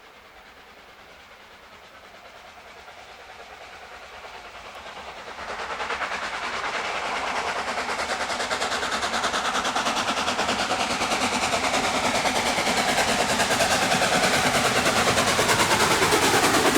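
A steam-hauled train approaching and growing steadily louder, with a sharp jump in loudness about five and a half seconds in. It is a fast, even, rhythmic beat.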